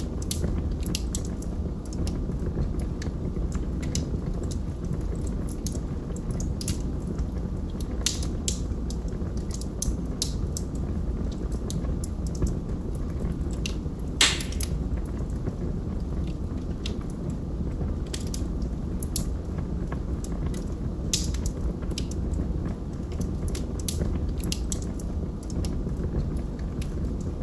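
Wood fire burning in a fireplace: a steady low rush of flame with scattered sharp crackles and pops, one louder snap about fourteen seconds in.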